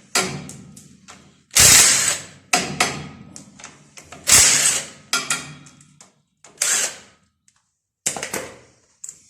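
Metal hand tool work on the Pancar engine's stud nuts: about six irregular, sharp metallic strokes, each fading within half a second, as the studs are tightened to test them.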